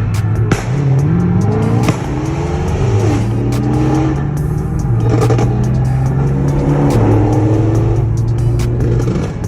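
Car engine revving and accelerating, its pitch climbing and then dropping back several times as it goes up through the gears, with music playing over it.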